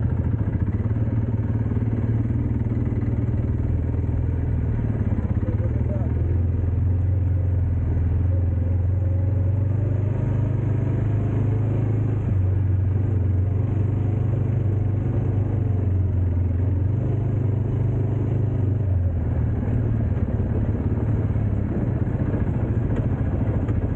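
Dirt bike engine running steadily on a ride, a low, even engine note that shifts slightly in pitch now and then.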